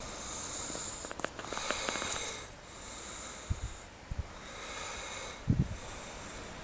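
A large flock of birds calling together in a high, continuous chatter that swells and fades, with a few low thumps in the second half.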